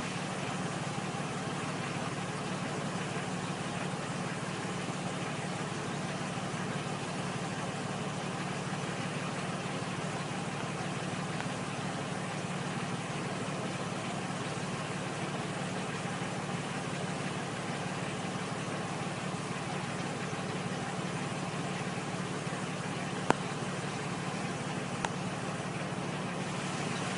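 Vehicle engine idling steadily, with no revving, and two short clicks near the end.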